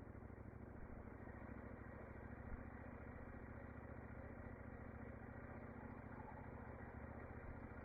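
Motorcycle engine running steadily, faint and even.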